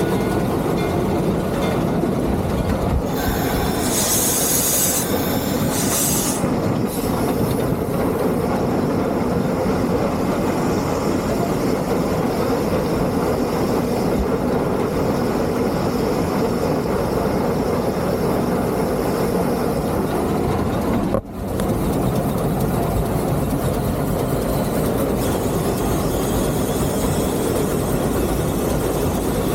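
Three-truck Shay geared steam locomotive running, heard from its cab: a steady rumble and clatter of the engine and running gear. A loud high hiss comes in about four seconds in and lasts a couple of seconds.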